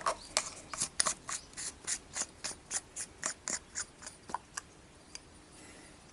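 Short rhythmic scraping strokes of hand work, about three a second, stopping about four and a half seconds in.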